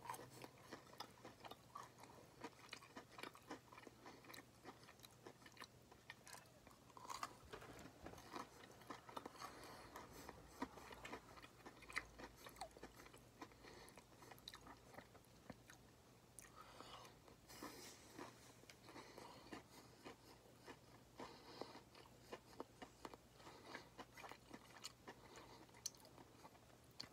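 A person chewing a bite of a breaded fried chicken nugget (a Burger King ghost pepper nugget): faint, irregular crunching and mouth clicks throughout, over a steady low hum.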